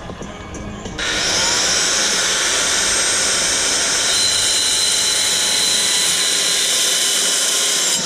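A power tool switches on about a second in, spins up to a steady high-pitched whine and runs at an even speed, starting to wind down at the very end.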